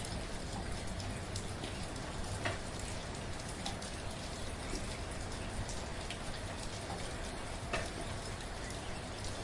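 Steady, gentle rain falling, an even hiss with individual drops ticking on a surface, a couple of louder drops standing out.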